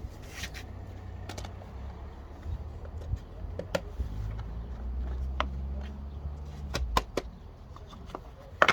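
Scattered clicks and knocks of hand work on a lawnmower, over a low steady rumble that grows louder for a few seconds in the middle and then drops back.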